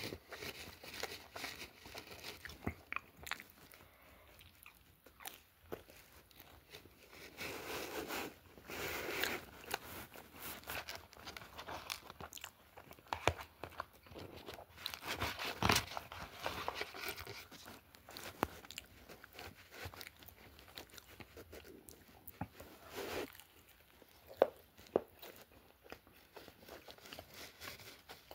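A person chewing and biting food close to the microphone, with irregular crunches and clicks throughout, loudest about halfway through.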